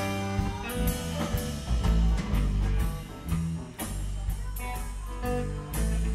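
Live blues-rock band jamming instrumentally: electric guitar lines over bass and a drum kit.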